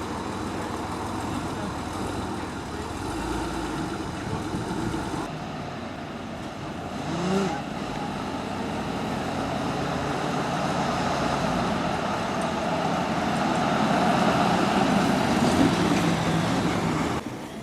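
A car engine running, with a brief rise in pitch about seven seconds in and growing louder toward the end, then cutting off suddenly.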